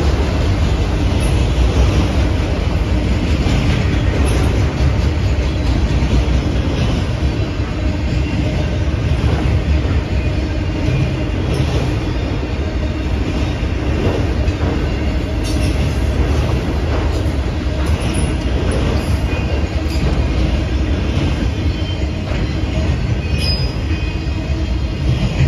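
Freight train of autorack cars rolling past: a steady rumble of steel wheels on the rails, with scattered clicks from the wheels and cars.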